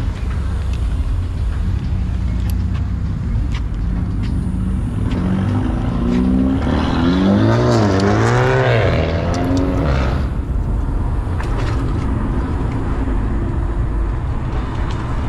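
Road vehicle noise while riding: a steady low rumble with wind. A pitched engine sound swells and wavers up and down in pitch in the middle, from about six to ten seconds in.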